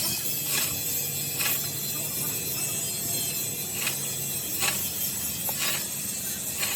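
Steady workshop machine noise with a high hiss, broken by about five sharp metallic clicks at irregular intervals.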